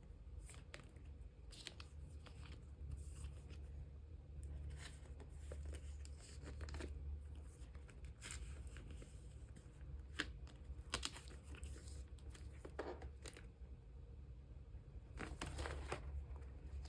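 Clear plastic card sleeves rustling and crinkling as photocards are handled and slid into them, with scattered soft clicks and taps, over a steady low hum.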